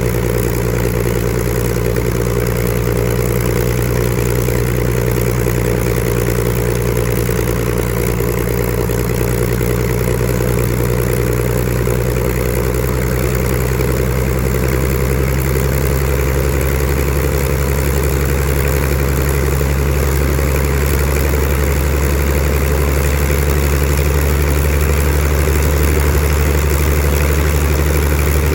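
Rolls-Royce Griffon V12 engine of a Spitfire Mk XIV running steadily on the ground, with its propeller turning. The deep note grows slightly louder about halfway through.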